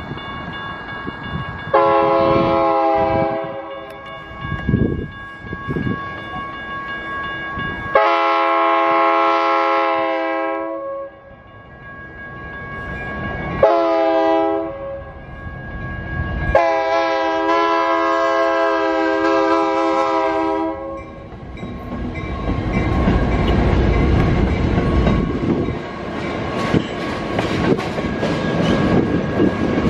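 Crossing bell ringing steadily. A diesel locomotive horn sounds the grade-crossing signal: two long blasts, a short one and a final long one. From about two-thirds of the way in, two BNSF SD75M locomotives and covered hopper cars rumble and clatter over the crossing.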